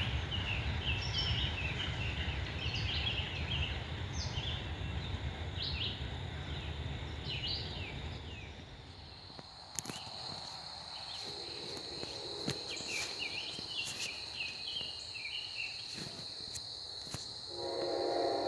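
Low rumble of a freight train going past, fading out about eight seconds in, with birds chirping over it. Then a steady high insect buzz, and a train horn begins to sound at the very end.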